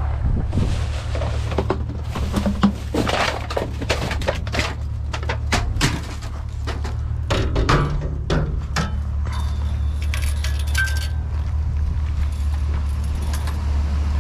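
Irregular clinks, knocks and rattles of hard objects being handled and moved, over a steady low hum.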